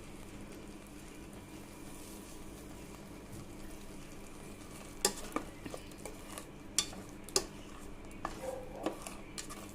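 Green masala paste frying gently in oil in a pan, a steady faint sizzle, with a spoon scraping and knocking against the pan from about halfway on as it is stirred. The paste is being cooked until the oil separates.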